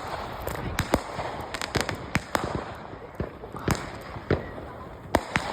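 Fireworks going off: a string of irregular sharp bangs and pops of varying loudness over a background crackle.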